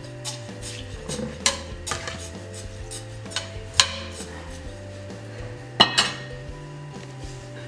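Slotted metal spatula scraping and knocking against a large metal cooking pot while rice is spread and levelled over the broth, a series of sharp clinks with the loudest a little past the middle and two close together near the end. Soft background music plays underneath.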